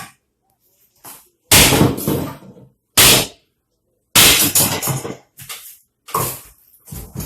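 About half a dozen loud, sudden crashes and bangs from old wooden drawers being smashed apart, each dying away within about half a second.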